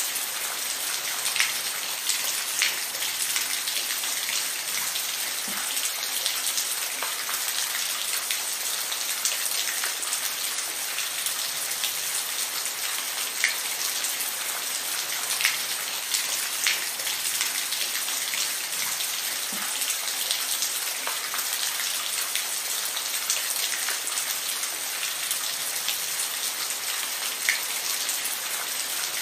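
Steady rain falling, an even hiss with individual drops ticking sharply on a surface now and then.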